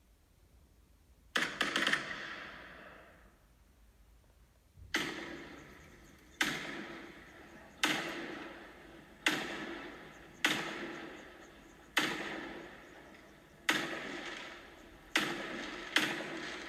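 Firework sound effects played by the Philips Hue Fireworks app: a crackling burst about a second in, then a string of firework bangs about every one and a half seconds, each dying away over a second or so.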